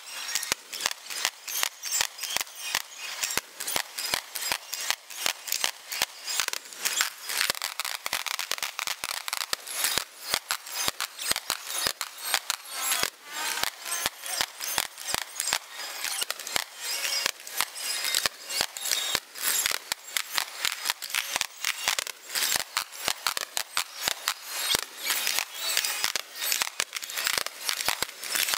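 Fireworks bursting in a continuous rapid barrage: sharp pops and crackles, several a second, with little low boom.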